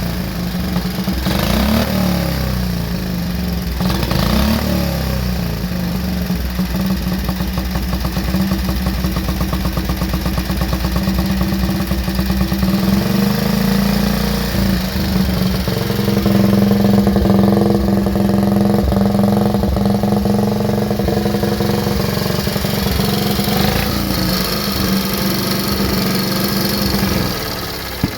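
Vintage Benelli motorcycle engine running, blipped up in short revs three times early on, then settling into a steady fast idle; the sound drops away shortly before the end.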